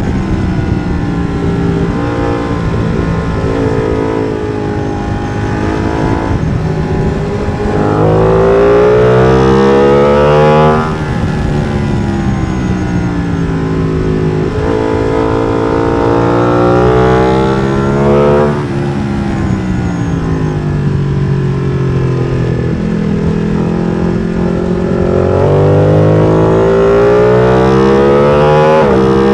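Ducati Streetfighter V2's 955 cc L-twin engine, fitted with an MIVV exhaust with the dB-killer removed, being ridden hard on track. The engine note climbs steeply under acceleration, drops sharply about eleven seconds in and again about eighteen seconds in, winds down and back up, then climbs again near the end.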